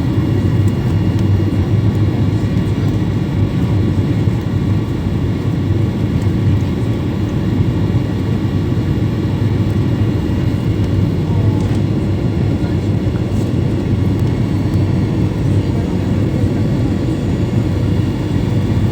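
Passenger airplane on its landing approach: a steady low drone of engines and rushing air, with a few faint steady hums, unchanging throughout.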